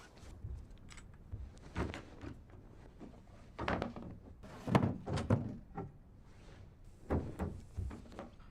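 A series of dull knocks and thuds in small clusters, the loudest group about halfway through.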